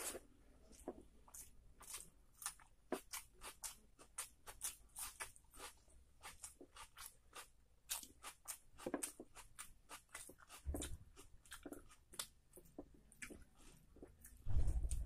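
Close-up eating sounds: chewing a mouthful of rice and curry eaten by hand, with many quick wet clicks and crunches, several a second. Two louder low thumps come about eleven seconds in and near the end.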